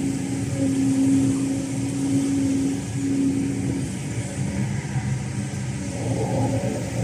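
Kobelco SK210LC excavator's Hino J05E-TG four-cylinder turbodiesel running steadily. A steady tone over it fades out about three seconds in.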